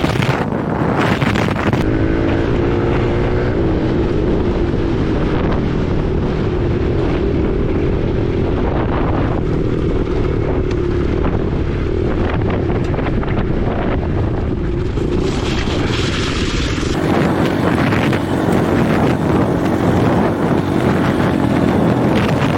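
Single-cylinder four-stroke dirt bike engine running under way, its note rising and falling a little with the throttle. Heavy wind buffeting on the microphone runs underneath it because the mic's wind sock is missing.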